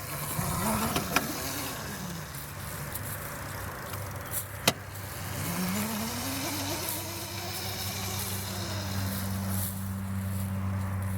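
Razor MX350 electric dirt bike's motor whining twice, rising in pitch as it speeds up and falling as it slows. There are two sharp clicks, and a steady low hum sets in near the end.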